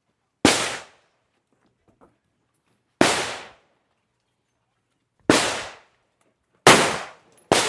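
Five single gunshots fired slowly, one at a time, each with a short echoing tail. The last two come close together near the end.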